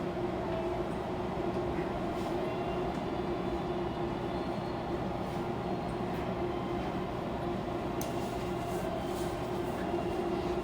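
Interior of a stationary Fukuoka City Subway 2000-series car: a steady hum from its onboard equipment and ventilation, with one steady tone, and a few faint ticks near the end.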